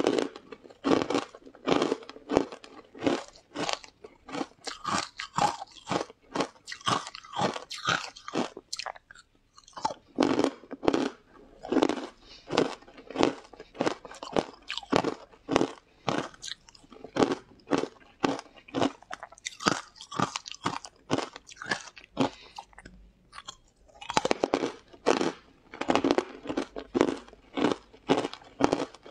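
Close-miked crunching and chewing of crisp, green powder-coated chunks, a fast run of sharp crunches with two brief pauses, about a third of the way in and again near the three-quarter mark.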